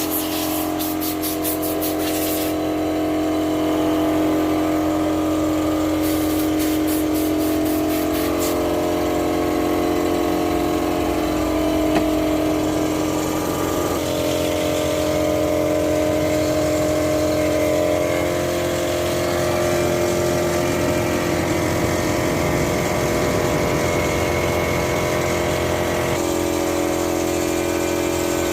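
A motor running steadily with a hum whose pitch shifts about halfway through and again near the end. Two spells of rapid clicking come in the first nine seconds.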